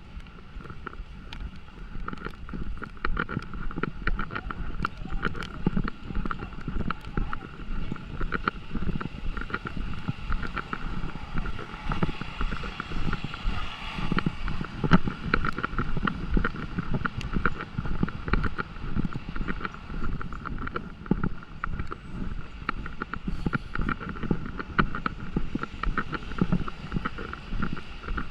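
Wind buffeting the microphone, with raindrops pattering in dense quick ticks over a steady hum.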